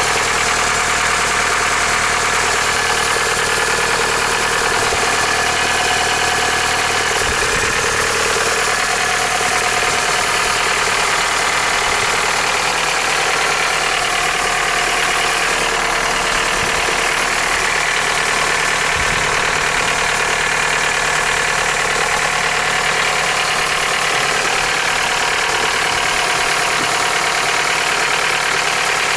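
Toyota 3S-FE 2.0-litre four-cylinder engine idling steadily, running like a tractor: the owner puts part of the noise down to worn camshaft journals in the cylinder head, with some extra din from a worn alternator bearing.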